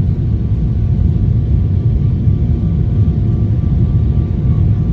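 Cabin noise of a Boeing 777 climbing steeply after takeoff, heard from a seat by the wing: a steady, heavy rumble from the GE90 engines, with a couple of faint steady tones riding above it.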